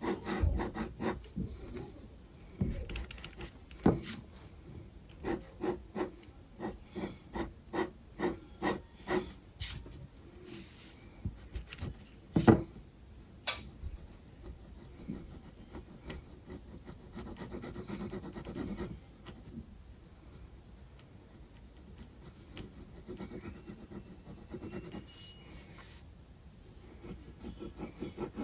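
Graphite pencil scratching on sketchbook paper. A run of quick hatching strokes comes at about two a second, with a couple of sharp clicks, and then softer continuous shading.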